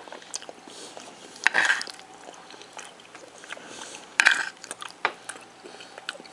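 A person chewing a mouthful of food, with small wet clicks throughout and two louder short sounds about one and a half and four seconds in.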